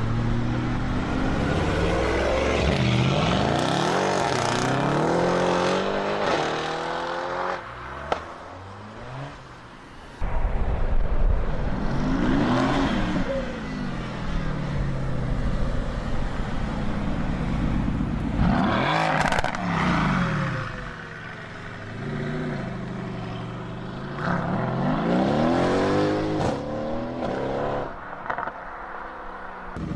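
Mercedes-AMG cars driving past one after another with loud exhaust, the engine note rising and then falling as each one goes by, about four passes.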